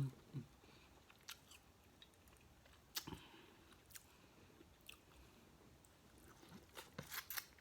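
Faint close-up eating sounds: chewing with scattered sharp clicks and crackles, and a quick run of them near the end.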